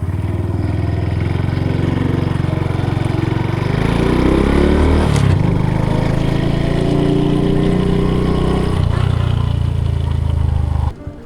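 Honda Super Cub C125's single-cylinder engine running through a Yoshimura GP-MAGNUM Cyclone exhaust while riding. The pitch climbs about halfway, drops and settles into a steady run, then cuts off suddenly near the end.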